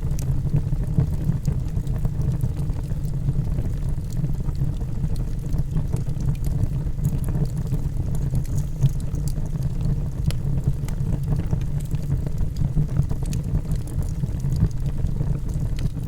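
Log fire burning in a fireplace: a steady low roar from the flames, with scattered sharp crackles and pops from the burning logs.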